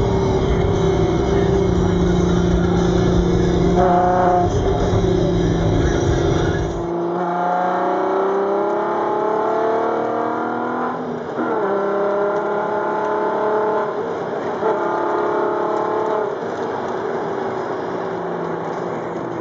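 Volkswagen R32's 3.2-litre VR6 engine through an Autospeed full exhaust, pulling hard at wide-open throttle. A heavy low rumble fills the first several seconds, then the pitch climbs again and again with brief breaks at the gear changes.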